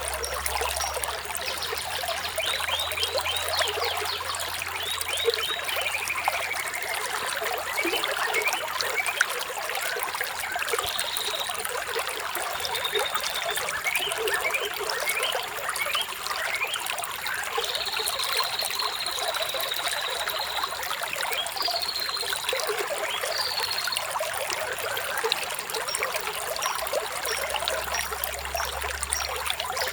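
Flowing stream water trickling and splashing steadily, with birds chirping over it in short high calls and one long high trill just past the middle.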